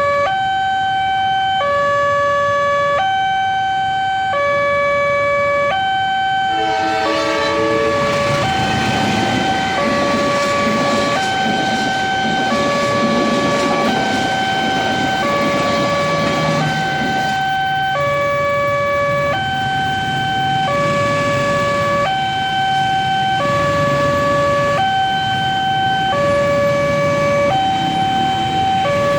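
Level-crossing warning alarm sounding a steady two-tone electronic signal, switching pitch a little over every second, that warns of an approaching train. About seven seconds in, the rumble and wheel noise of a passing train rise under it and continue.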